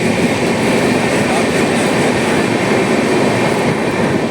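Train running at speed, heard from on board: a loud, steady rumble of wheels on the rails and the rattling carriage.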